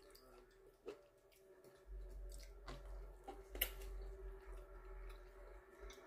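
Soft chewing and lip-smacking while gnawing meat off a lamb chop bone, with a few sharp mouth clicks. A faint steady hum runs underneath.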